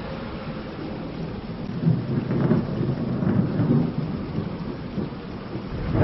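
Thunderstorm: steady rain with low rolling thunder that swells a couple of times and builds louder near the end.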